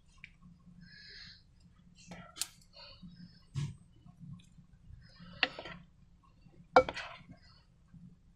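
Slime being worked with balloons by hand: scattered wet clicks and sticky squelches, a few sharper snaps, the loudest near the end.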